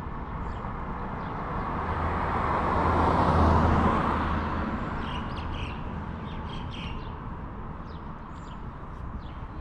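A motor vehicle passes close by on a city street, its noise rising to a peak about three and a half seconds in and fading away, over steady traffic rumble. Short high chirps come and go on top, thickest in the middle of the passage.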